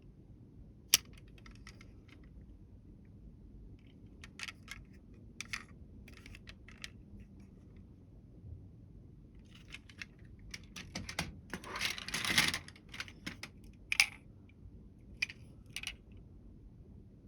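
Toy model vehicles being handled and set down: scattered light clicks and small clattering knocks, with a sharp click about a second in, a longer rattle of clicks a little past the middle, and another sharp click near the end.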